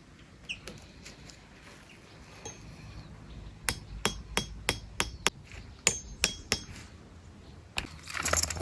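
About nine sharp knocks, roughly three a second, each with a short metallic ring. They begin a little past the middle and stop near the end.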